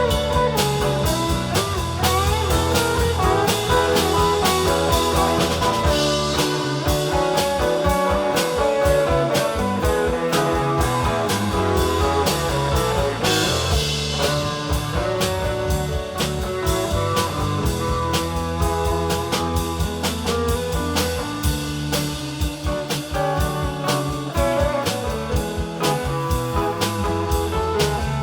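Rock band playing an instrumental passage: guitar over bass and drum kit, with a steady beat throughout.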